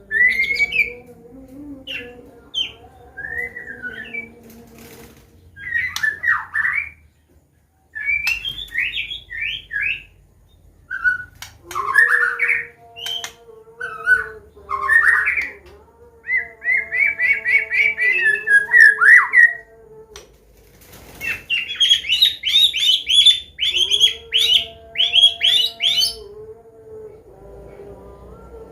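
White-rumped shama (Medan type) singing its varied 'combination' song: short whistled phrases and rapid trills, changing from phrase to phrase, over a steady low hum. The sound drops out briefly about seven seconds in.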